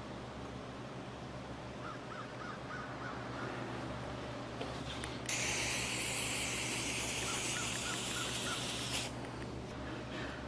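A hiss of spraying air or aerosol that starts about five seconds in and stops after about four seconds, over a steady electrical hum.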